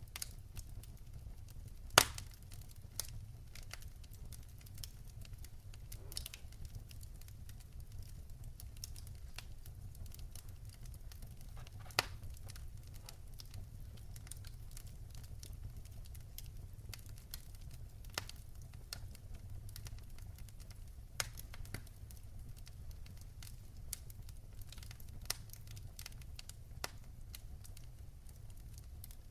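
Wood fire crackling in a fireplace: a steady low rumble with scattered sharp pops and snaps, the loudest about two seconds in.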